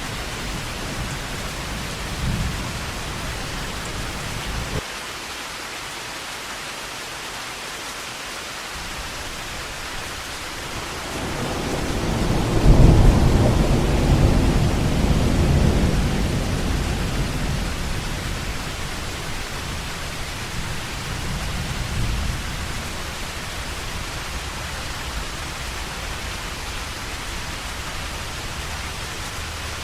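Heavy rain falling steadily, with rolling thunder: a low rumble cuts off suddenly a few seconds in, then a louder peal builds, cracks loudest about a third of the way through and rumbles away slowly over several seconds.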